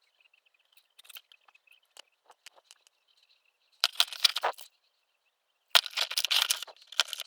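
Workshop handling noises: scattered small clicks and taps, then two crackling, scraping bursts, each under a second long, about four and six seconds in.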